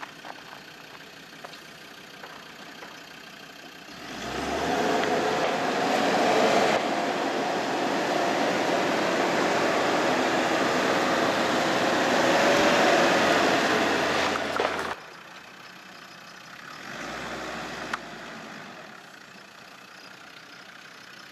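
Land Rover Discovery's engine revving hard under load as the 4x4 drives out of deep mud, loud for about ten seconds from about four seconds in, then cutting off abruptly and dropping to a lower running sound.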